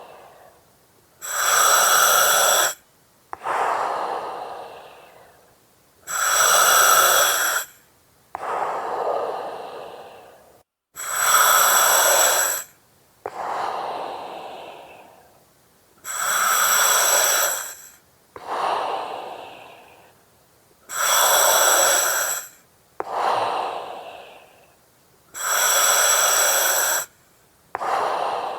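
Slow, regular breathing through an oxygen mask, about one breath every five seconds. Each breath is a loud hiss from the mask's regulator, lasting about a second and a half and starting and stopping sharply, followed by a softer breath that fades away.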